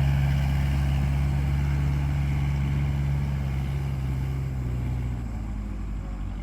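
Kubota MU4501 tractor's four-cylinder diesel engine running steadily while pulling a fully loaded trolley of paddy. About five seconds in the engine note drops lower and the sound gets quieter.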